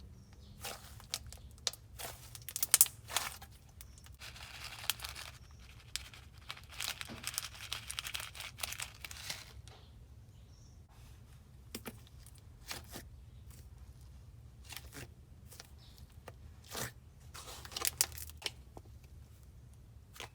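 Jelly slime being squished and handled: irregular sticky clicks and snaps, with longer crinkly, crackling stretches about four and seven seconds in.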